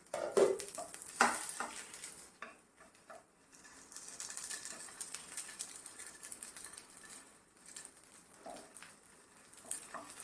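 Patties sizzling in a little oil in a pan, a steady hiss with small crackles. A few sharp knocks and scrapes of metal utensils on the pan come in the first second and a half.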